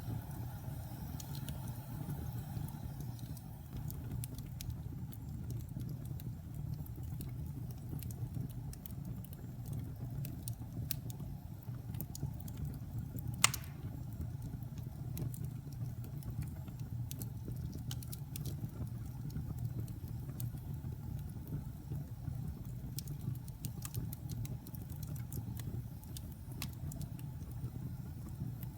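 Wood fire in a fireplace burning with a steady low rumble and scattered small crackles, and one loud pop about halfway through.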